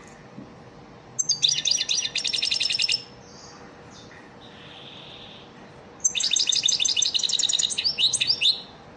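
European goldfinch singing: two bouts of fast, twittering song, the first about a second in and the second from about six seconds to near the end. This is an 'elmacık'-style lesson song of the kind played to teach young goldfinches.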